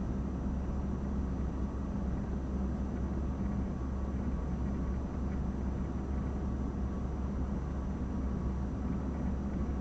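Steady low rumble of an idling vehicle engine, with a faint steady high whine above it.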